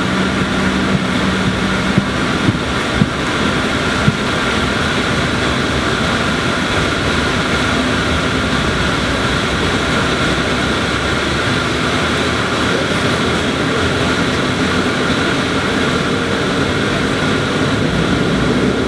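Propeller airliner's turboprop engine and propeller running steadily at high power, heard from inside the cabin right beside the propeller, as a loud steady rush with a faint hum running through it. A few light knocks come in the first few seconds.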